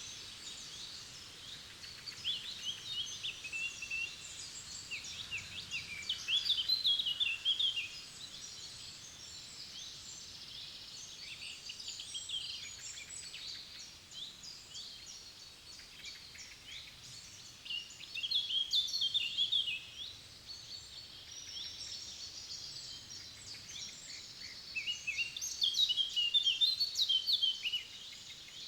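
Songbirds singing, several quick, twittering phrases of about two seconds each, the loudest about six seconds in, at about eighteen seconds and near the end, over a faint steady background hiss.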